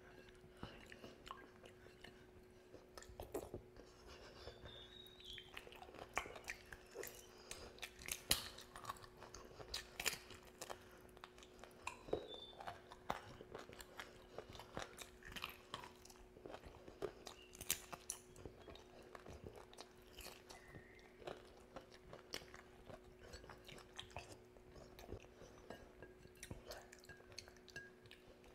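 Close-up eating sounds of a man eating rice and curry with his hand: irregular wet smacks, clicks and chewing, with the squish of fingers mixing rice into gravy on the plate. A faint steady hum runs underneath.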